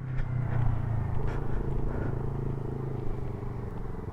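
Motorcycle engine running steadily at low revs, its tone changing slightly about a second in.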